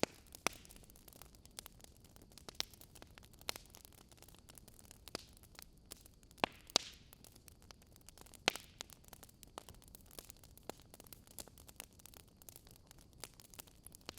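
Wood fire crackling: irregular snaps and pops from burning logs over a faint hiss, with a handful of louder pops among the small ticks.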